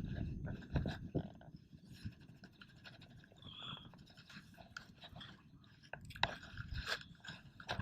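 Irregular scraping and crunching of wet beach sand and clam shells, a few sharper crunches about a second in and again near the end, from razor clam digging.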